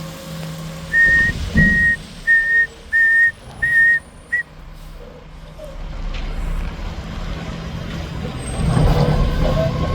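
A truck's backup alarm beeps six times in a steady high tone, then stops. After that, a heavy vehicle's engine noise grows louder toward the end.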